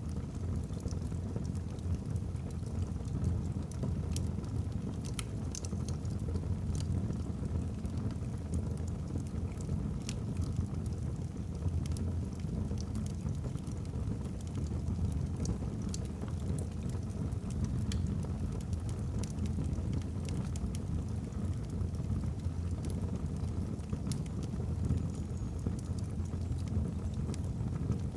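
Wood fire burning in a fireplace: a steady low rush of flames with frequent small crackles from the logs.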